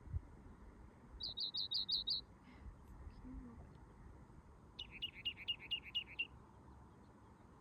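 A songbird singing two quick series of repeated chirps: about six even, high notes a second in, then about eight slightly lower notes near the middle, each slurring down.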